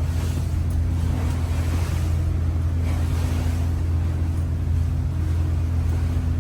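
The trawler's engine drones steadily under way, a deep even hum, with wind and waves washing around the boat that swell briefly twice.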